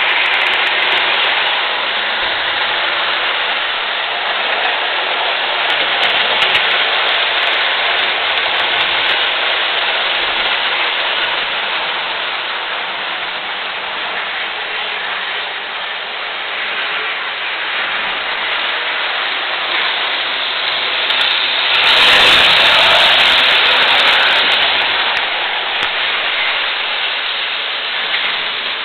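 Electric model trains running around a layout: a steady rattling hiss of wheels on track and small motors, swelling louder for a few seconds about two-thirds of the way in.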